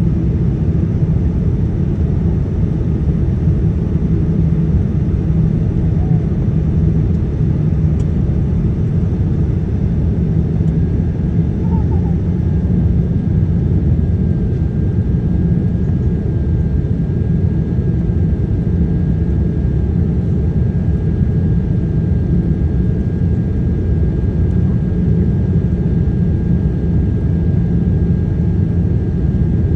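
Steady low rumble of a Boeing 787-9 airliner's engines and airflow, unchanging in level, with a faint thin high tone joining about twelve seconds in.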